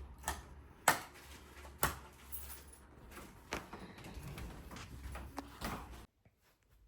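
About five separate sharp knocks and clicks, spread over a low hum, with the sound cutting off abruptly about six seconds in.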